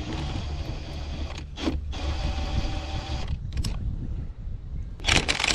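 A machine running with a steady low hum and a whine over it, broken by a few sharp knocks, about one and a half seconds in, at three and a half seconds, and near the end.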